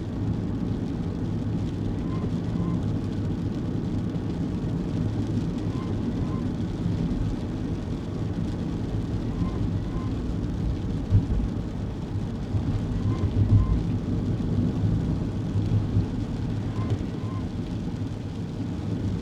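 Inside a moving kei car: a steady drone of engine and road noise, with a couple of heavier low bumps about eleven and thirteen seconds in. A faint short double chirp repeats about every three and a half seconds.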